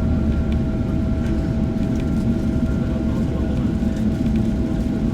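Cabin noise inside a Boeing 777-300ER after landing: a steady low rumble with the steady whine of its GE90 engines at low thrust, and a few light rattles.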